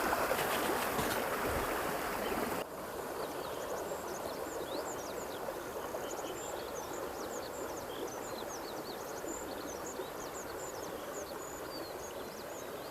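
River water rushing and rippling, louder for the first few seconds, then dropping abruptly to a softer flow. Over the softer water, many short high bird chirps.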